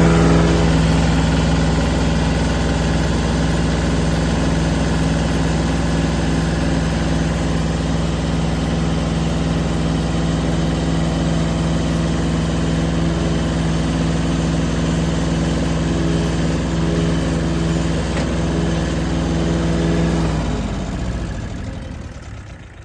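Small two-cylinder diesel tractor engine running steadily at raised throttle, which makes the slow loader hydraulics work faster. Near the end it winds down and drops off sharply in loudness.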